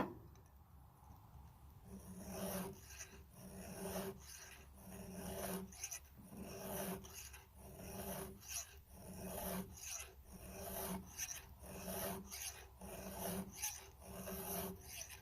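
Round chainsaw file rasping on a cutter tooth of a saw chain, in steady back-and-forth strokes about one every three-quarters of a second, starting about two seconds in. The tooth is being worked up and back to raise a burr on its edge.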